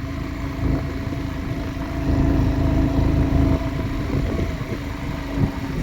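Motorcycle engine running steadily under load, pulling up a steep hill road that the rider says it is struggling to climb.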